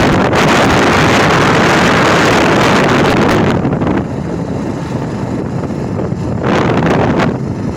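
Wind rushing over the microphone on a moving motorcycle, with road and engine noise under it. The rush drops away about three and a half seconds in and swells again briefly near the end.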